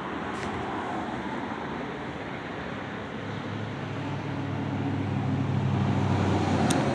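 A motor vehicle's engine hum over steady road or wind noise. The hum comes in about halfway through and grows louder until it cuts off just before the end.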